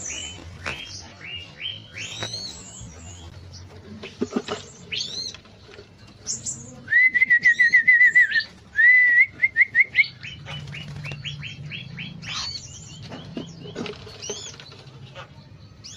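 Several cucak birds (bulbuls) chirping in an aviary: many short rising chirps, with two loud, fast trills of repeated notes about halfway through.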